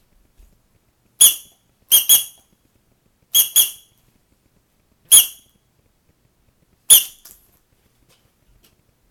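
Seven short, high-pitched squeaks at an unchanging pitch, spaced a second or more apart, with two quick pairs among them.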